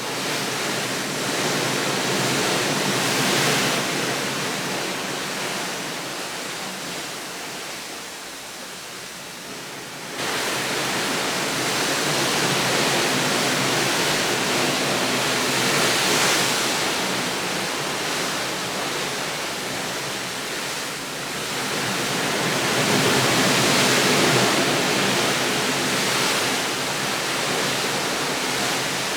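Steady rushing outdoor wash of noise, like running water or surf, swelling and easing every several seconds, with a sudden step up in level about ten seconds in.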